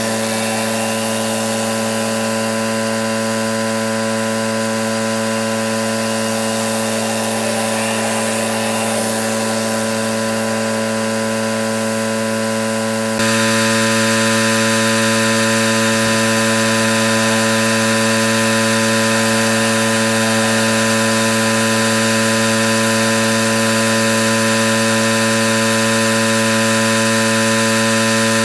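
Pressure washer running steadily, a constant machine hum with a hiss of spray over it. About thirteen seconds in, the sound steps up suddenly, louder and brighter, and then holds steady.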